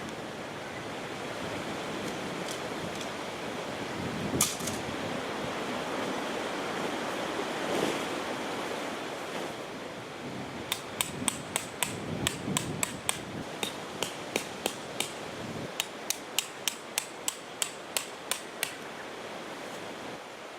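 Steady wash of noise like surf or wind, then a run of sharp, evenly spaced taps, about two to three a second for some eight seconds, like metal being struck with a hammer.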